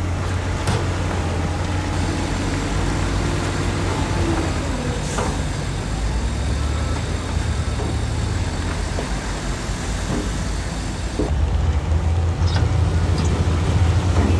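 Diesel engine of heavy earthmoving machinery running steadily, growing louder about eleven seconds in, with a few sharp metallic knocks.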